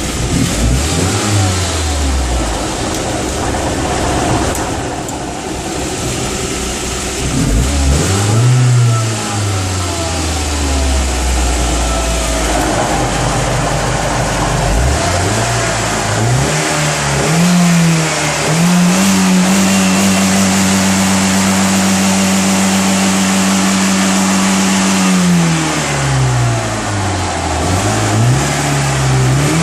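Engine of a Moskva-2 motorboat, fitted with a new muffler, being revved: several climbs and drops in pitch, then held at high revs for about six seconds in the second half, falling back and rising again near the end.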